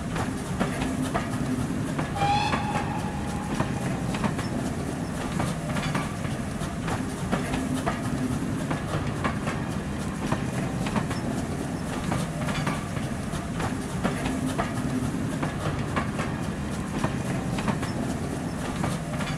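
A train's carriages running past: a steady rumble with the wheels clicking over rail joints. A brief high tone sounds about two seconds in.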